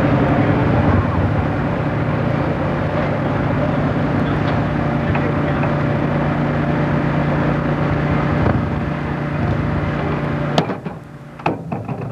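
An engine running at a steady pitch, cut off abruptly about ten and a half seconds in, followed by a few sharp clicks.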